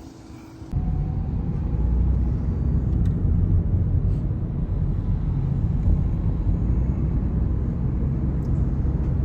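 A vehicle engine running: a steady, loud low rumble that starts abruptly about a second in.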